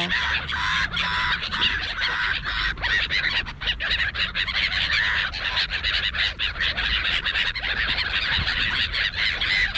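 A flock of gulls calling, with herring gulls among them: many squealing, honking calls overlapping into a steady chorus, with scattered short clicks.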